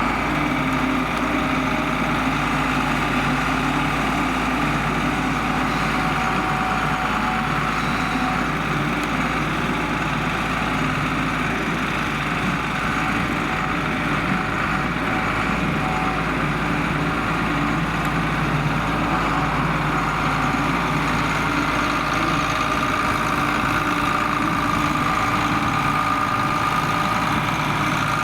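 John Deere 4850 tractor's six-cylinder turbo diesel engine running steadily.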